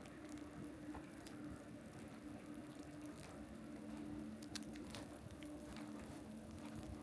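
Light rain pattering, with scattered sharp drop-like ticks and a faint low hum that comes and goes underneath.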